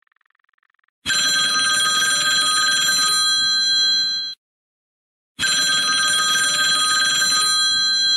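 Telephone bell ringing: two long rings of about three seconds each, a second apart.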